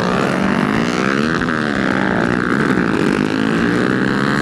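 Pit bike engines revving, their pitch rising and falling as the bikes ride around a track, with more than one engine heard at once.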